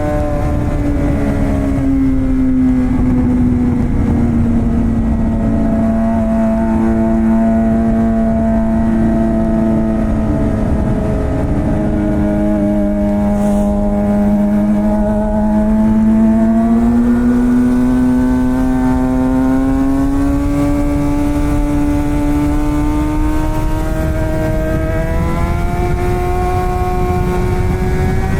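Suzuki GSX-R600 (K7) inline-four running through a straight-piped M4 exhaust with no catalytic converter, pulling steadily on the move. Its note sinks gently over the first few seconds, holds low through the middle, then climbs gradually through the second half.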